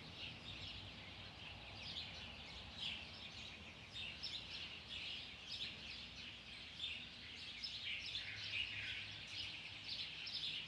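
Small birds chirping, a steady stream of short high chirps, over a faint low outdoor background hum.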